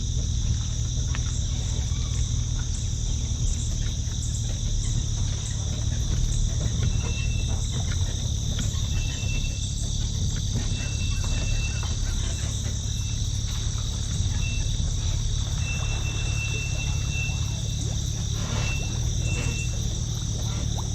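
Steady chorus of crickets and other insects, a constant high shrill sound over a low steady rumble. Short high tones come and go from about seven seconds in.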